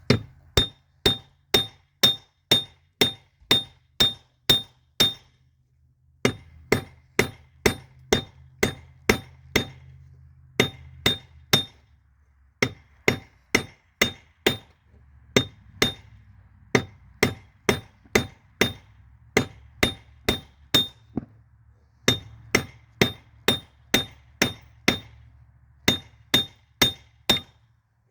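Hammer blows on a railroad spike over an anvil during forging, about three strikes a second in runs with short pauses between, each strike ringing brightly. A low steady hum runs underneath.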